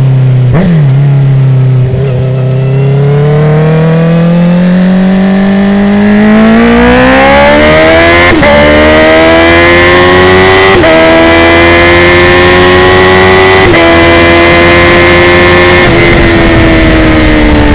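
Honda CB650R inline-four engine through an open Akrapovic titanium exhaust with its dB killer removed, accelerating hard. Two quick shifts come near the start. Then the revs climb steadily, with three short quickshifter upshifts that each drop the pitch, and the revs fall gently near the end as the throttle eases off.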